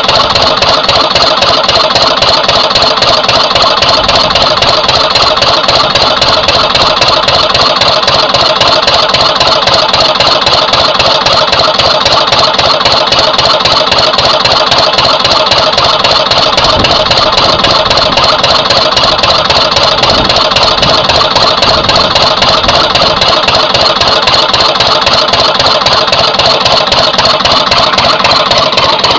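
Twin-cylinder Lister CS diesel stationary engine running steadily, with an even, rapid beat of firing strokes. Its fuel pumps have been balanced, but the owner still finds cylinder two slightly weaker than cylinder one and suspects its injector's spray pattern.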